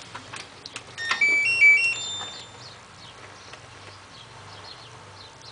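A button click, then the LG F1222TD washing machine's short electronic jingle of a few stepped beeping notes, about a second in, as the machine is switched on.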